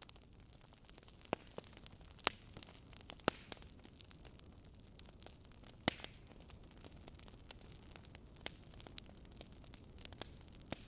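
Wood fire burning in a fireplace: irregular sharp crackles and pops over a low steady hiss, with a few louder pops scattered through.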